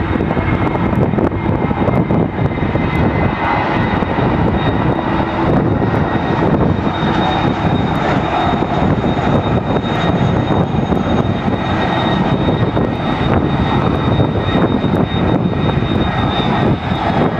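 Airliner engines running loud and steady: a dense rushing noise with a thin, steady high whine over it.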